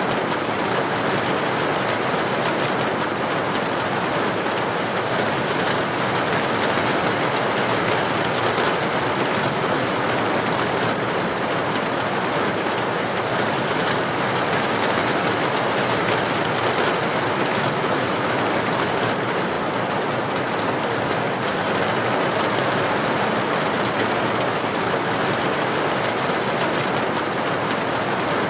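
Heavy rain falling on a street: a steady, even hiss of downpour with no changes or claps.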